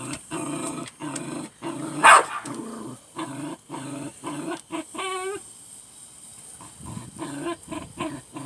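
Dog growling in a run of short low rumbling bursts, with one loud sharp bark about two seconds in and a brief high whine about five seconds in. He is worked up at a frog he is trying to catch.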